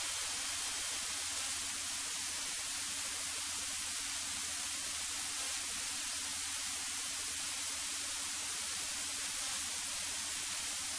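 Steady static-like hiss with a faint low hum underneath, unchanging throughout, as heard on a light aircraft's cockpit intercom audio feed during the approach.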